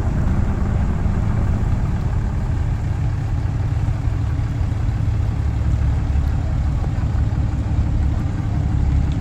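A truck engine idling steadily with a deep, even hum.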